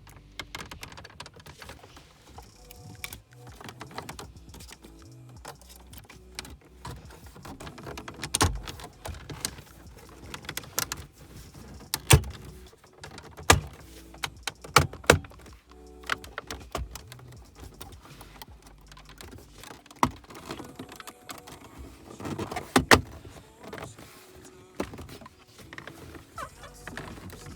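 BMW E90 centre-console plastic trim and wiring being handled and pressed back into place: scattered clicks, knocks and rattles, with a few sharp snaps in the middle stretch.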